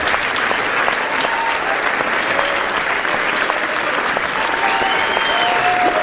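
A large audience clapping in steady, sustained applause, with faint voices from the crowd here and there.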